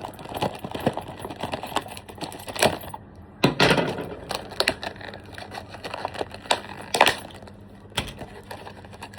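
Handling noise: irregular clicks, taps and light rattles of small hard objects being picked up and moved, with a louder scrape or rustle about three and a half seconds in and another about seven seconds in.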